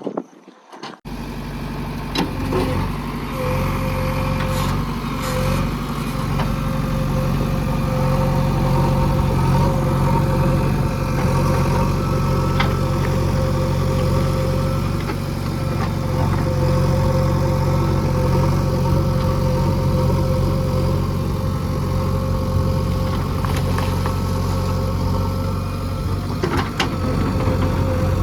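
Heavy diesel engine of earthmoving machinery running steadily, with a steady whine and a few short knocks. It comes in abruptly about a second in.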